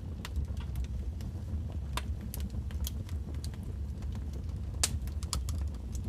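Wood fire crackling in a fireplace: irregular sharp pops and snaps over a steady low rumble, the loudest pop just before five seconds in.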